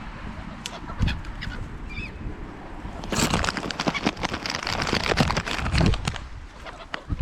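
A crowd of gulls and other water birds calling with harsh, honking squawks, faint at first and loudest from about three seconds in until just before the end.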